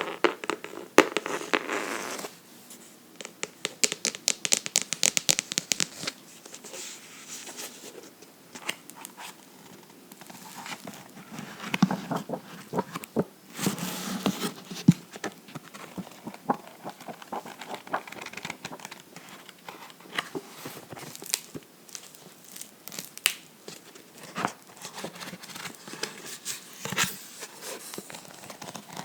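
Fingers tapping and scratching on a book, close-miked, in irregular crisp clicks and rustles, with a quick run of taps a few seconds in.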